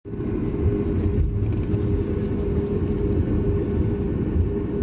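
Passenger-jet noise heard from inside the cabin: a steady low rumble with a constant hum over it.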